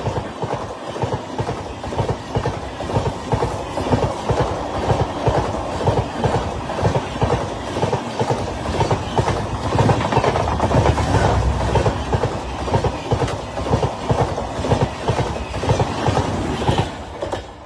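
Train running on the rails, its wheels clicking over the rail joints in a fast, steady clickety-clack, dropping away near the end.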